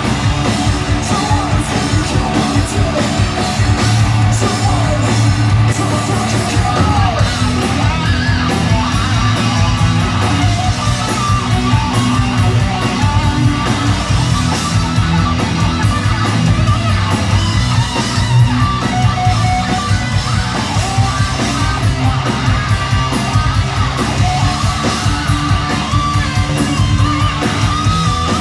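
Heavy metal band playing live and loud: distorted electric guitars, bass and drums with singing.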